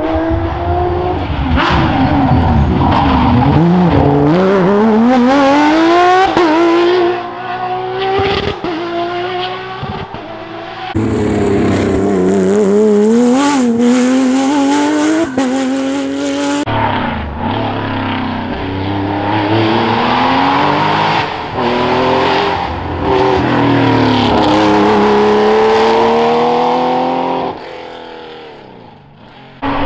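Porsche rally cars driven hard, their engines revving up through the gears with sharp drops in pitch at each shift and lift-off. Several separate car passes follow one after another with abrupt cuts between them.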